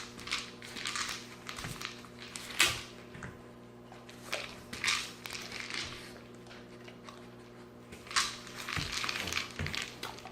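Doberman puppy eating kibble from a plastic KONG Wobbler food toy: crunching and rattling, with a few sharp knocks. The loudest knock comes about two and a half seconds in, and another near eight seconds.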